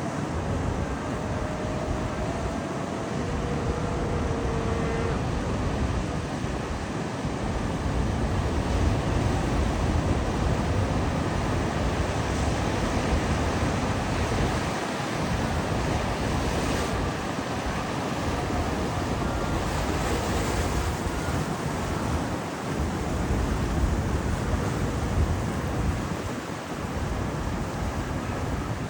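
Rough, storm-stirred sea surf breaking and rushing without a break, with wind buffeting the microphone in a low, uneven rumble.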